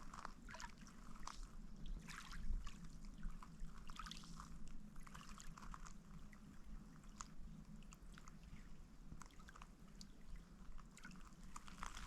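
Faint water trickling and dripping, with scattered small ticks and drops.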